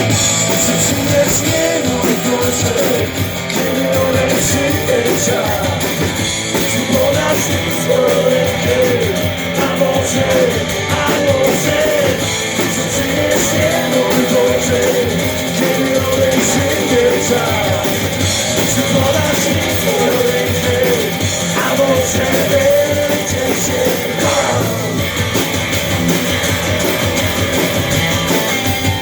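Live rock band playing an instrumental passage: a guitar plays a bending lead melody over drums and rhythm guitar.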